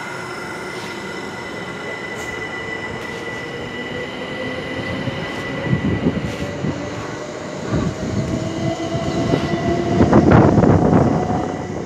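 Electric passenger train accelerating: a motor whine rises steadily in pitch over a steady high squeal. Wheel clatter grows and is loudest near the end.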